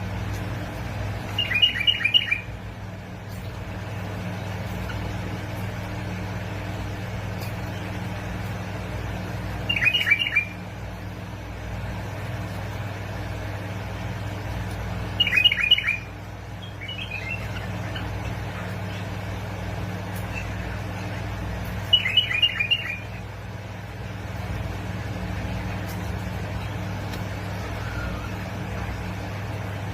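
Bulbul singing short, bubbling phrases, four bursts spaced several seconds apart, over a steady low hum.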